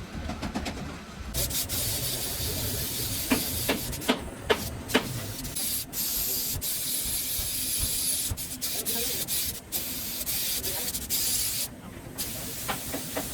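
Compressed air hissing in long bursts, briefly cut off twice, with scattered sharp knocks of workshop tools.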